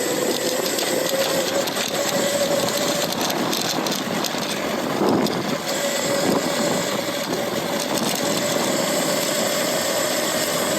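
Titanium e-bike's Lightning Rods electric drive motor whining at a steady pitch while riding, over wind and road rush. The whine fades for a few seconds around the middle and comes back slightly higher.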